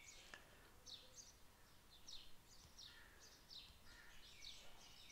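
Near silence with faint bird chirps in the background: short high notes that fall in pitch, repeated once or twice a second.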